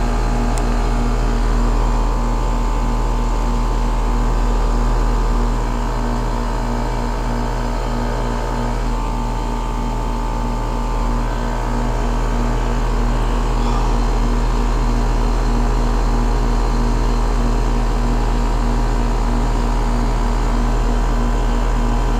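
Outdoor unit of a 2001 Trane XE1000 Weathertron heat pump running steadily in heating mode: a constant low compressor hum with the outdoor fan's whoosh. Its outdoor coil is freezing up, ahead of a defrost cycle.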